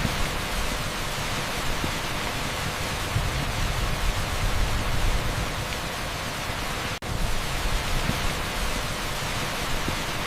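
Heavy rain pouring steadily onto an asphalt street, a dense, even hiss. The sound drops out for an instant about seven seconds in.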